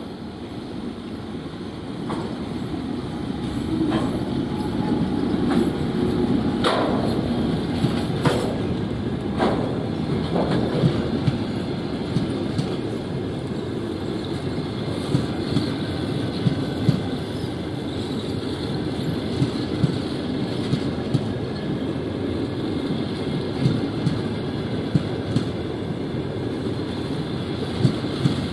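Passenger train rolling past at low speed, a steady rumble of rolling stock with its wheels clacking over the rail joints at an even rhythm.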